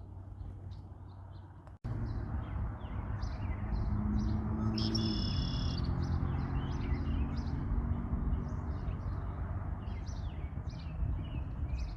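Wild songbirds chirping and singing in many short, repeated calls, with one sharper, louder call about five seconds in. A steady low hum runs underneath and grows louder after a brief break about two seconds in.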